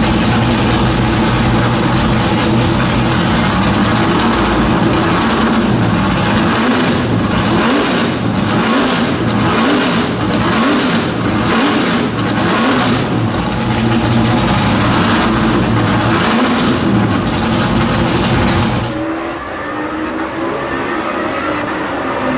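Shadow Can-Am race car's V8 engine running loud and rough, with a run of repeated throttle blips in the middle. About nineteen seconds in it cuts abruptly to a quieter, duller engine sound whose pitch rises near the end.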